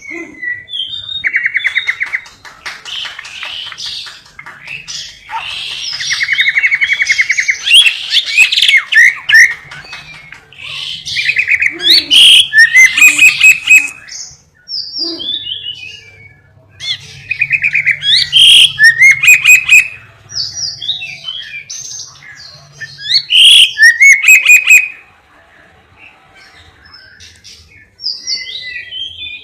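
Caged lovebird singing a varied song: long rapid chattering trills alternating with sharp chirps and whistled canary-like notes, in bursts with short pauses.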